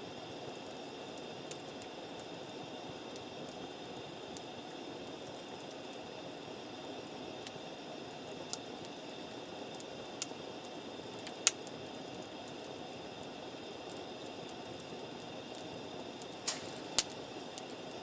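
Wood campfire burning with a steady low hiss and occasional sharp pops and cracks. The loudest pop comes a little past the middle, and there is a short cluster of pops near the end.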